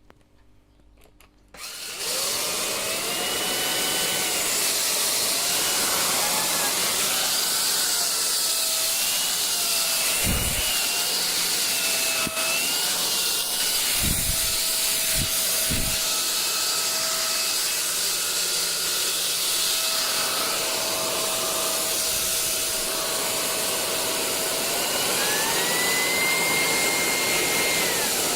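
LEVOIT VortexIQ 40 cordless stick vacuum switched on about two seconds in, running with a loud rush of suction and a motor whine. The whine wavers, then holds steady, and rises to a higher pitch near the end as the motor speeds up. A few low thumps come in the middle.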